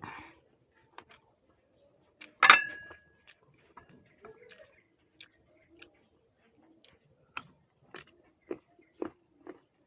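A loud crunchy bite into a crisp green guava about two and a half seconds in, followed by crunchy chewing; near the end the chews come about twice a second.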